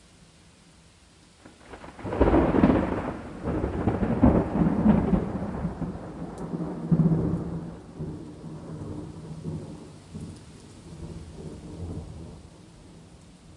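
Steady rain with a thunderclap that breaks sharply about two seconds in and rumbles on, dying away over the next ten seconds.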